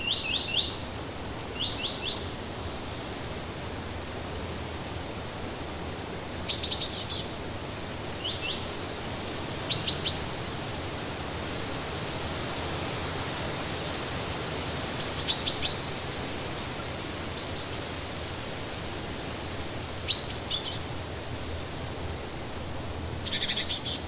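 Songbirds chirping in short clusters of three or four quick notes, repeated every few seconds, over a steady background hiss.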